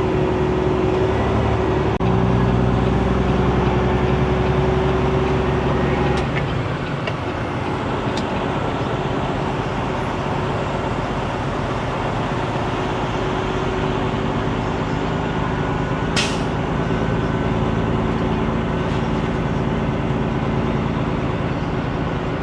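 Semi truck's diesel engine running steadily, its pitch changing about two seconds and again about six seconds in, with a short hiss about sixteen seconds in.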